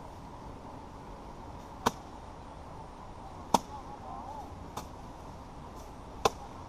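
Manual rice-harvesting work: four sharp, crisp strikes of the paddy work, one every one and a half to two seconds. The third is the loudest and the one just after it is much fainter.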